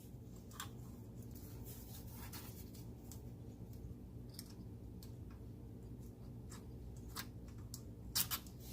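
Faint, scattered clicks and taps of small tools being handled, with a couple of sharper clicks near the end, over a steady low hum.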